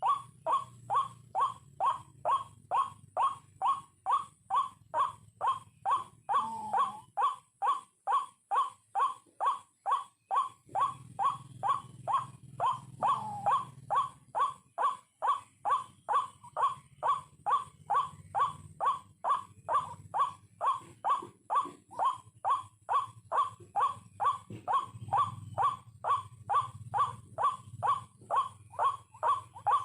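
White-breasted waterhen (ruak-ruak) calling: a short, harsh call repeated very evenly, about twice a second, without a break.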